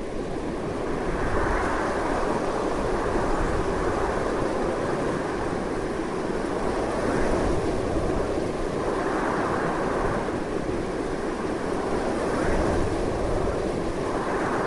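Strong wind blowing without a break, as a steady rushing noise that swells and eases in gusts every few seconds.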